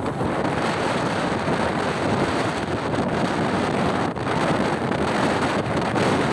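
Steady wind buffeting the microphone of a motorcycle ridden at speed.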